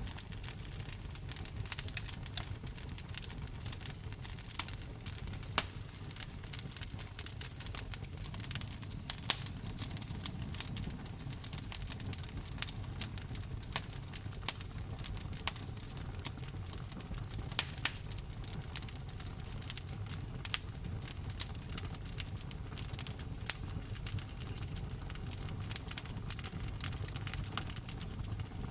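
Wood fire crackling in a fireplace: frequent sharp pops and snaps of burning wood over a steady low rumble of the flames.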